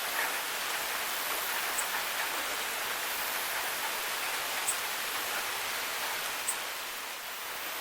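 Steady rain falling: an even hiss with a few louder drops ticking sharply now and then.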